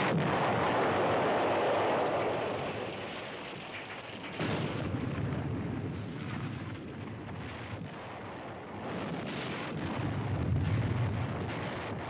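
Artillery shells exploding, each blast followed by a long low rumble that dies away slowly. A fresh blast comes about four seconds in, and the rumble swells again near the end.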